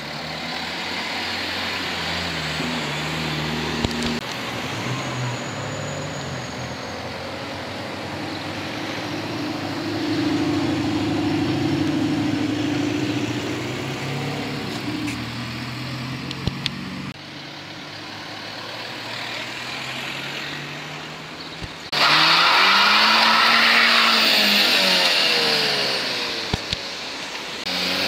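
Cars' engines running as they pull away and drive past, the pitch shifting as they speed up and slow. Near the end one car goes by much louder, its engine note rising and then falling.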